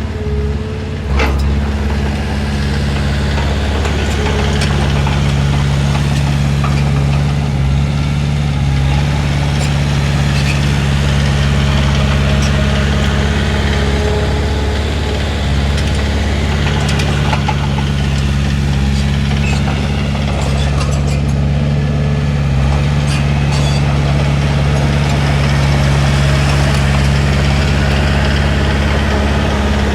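Komatsu D31P bulldozer's diesel engine running steadily at a constant pitch, with a few brief metallic clanks scattered through.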